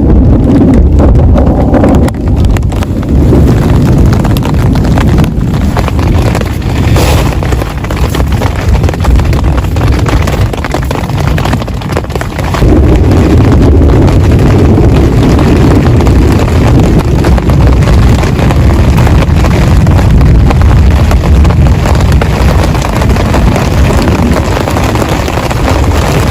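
Heavy rain pouring down: a loud, dense, steady noise, heaviest in the low end, easing briefly about ten seconds in.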